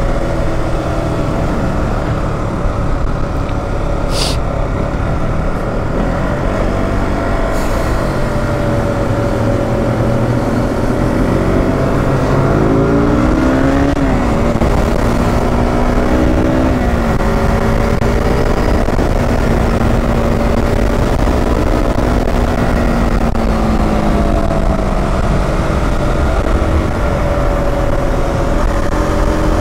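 KTM RC 200's single-cylinder engine on its stock exhaust, running under way with the engine note rising and falling as the throttle changes, over heavy wind rumble on the microphone.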